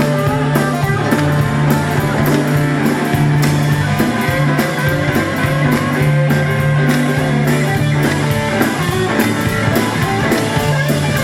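Live rock band playing an instrumental break between sung verses: guitar playing over a steady bass line and a regular drum beat.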